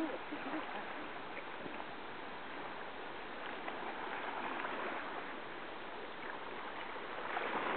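Steady wash of seawater at the shoreline, small waves running in and out.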